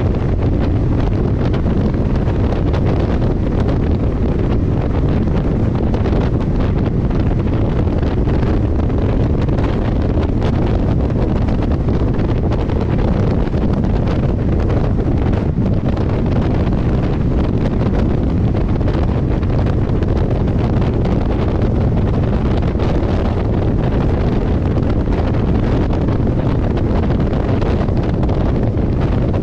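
Passenger coach of a moving train running steadily, with heavy wind buffeting the microphone.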